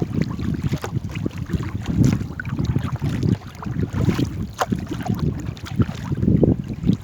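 Wind buffeting the microphone as an uneven, gusty rumble, with many short clicks and knocks scattered through it.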